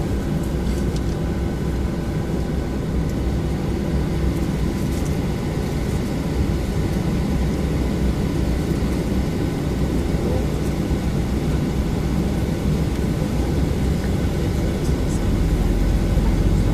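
Steady cabin rumble and hum inside a Boeing 737-800 on the ground, with faint steady whining tones above it. The low rumble grows louder near the end.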